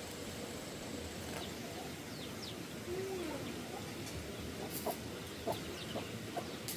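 Chickens clucking over a steady background hiss, with a few sharp clicks in the second half.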